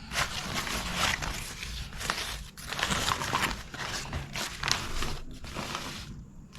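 Close-miked eating noises: crunching and crinkling in irregular spells, with brief pauses.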